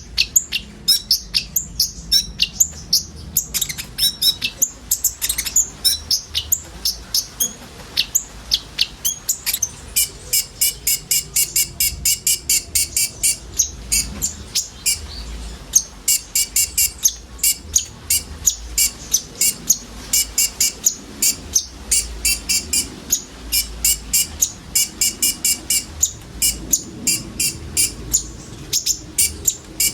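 Konin sunbird singing: a fast, steady stream of sharp, high chirping notes, several a second, in long runs.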